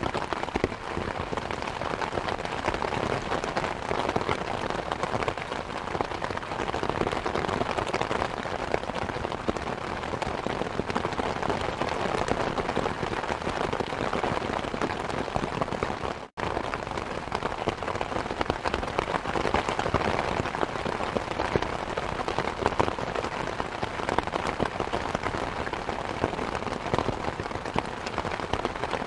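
Steady rain mixed with the crackle of a wood fire, dense and even throughout. The sound drops out for an instant about sixteen seconds in.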